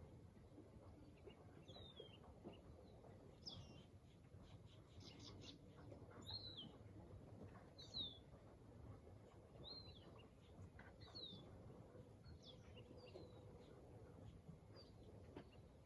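A bird repeating a short, falling chirp every second or two, with a quick run of rapid notes partway through, faint over a low steady background rumble.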